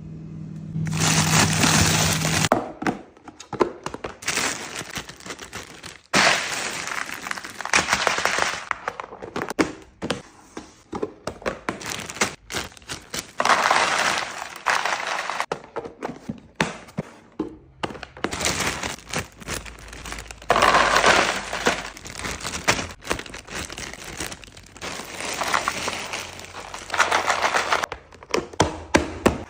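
Packaging crinkling and containers clicking and knocking as food is unpacked and set into a fridge, in repeated bursts of a second or two with sharp clicks and thunks between them.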